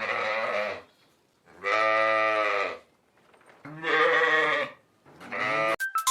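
Bleating from a goat or sheep: four separate calls of about a second each, the first with a quavering pitch. A short electronic jingle starts just before the end.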